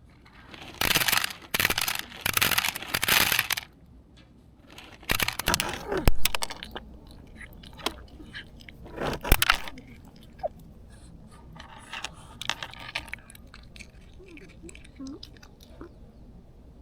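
A cat eating dry food, crunching kibble and gulping as it swallows. Several loud scraping bursts come in the first few seconds, then a run of small crisp crunches.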